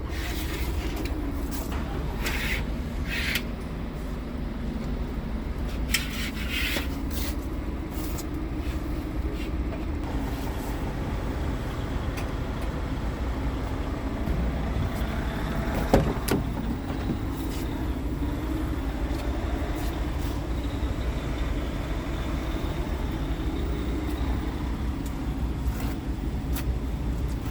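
Scania R tractor unit's diesel engine running steadily, with a single sharp knock about sixteen seconds in.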